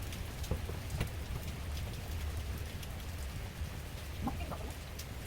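Rain falling on leaves: a steady patter with scattered single drops ticking, over a low rumble.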